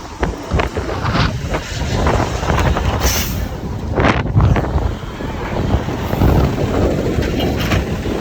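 Wind buffeting the microphone in heavy, irregular gusts over the running engine of a Mack side-loader garbage truck, with a short hiss about three seconds in.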